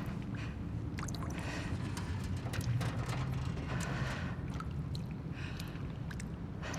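Abandoned-building ambience: a steady low rumble with scattered sharp clicks and short noisy rustles and scrapes over it.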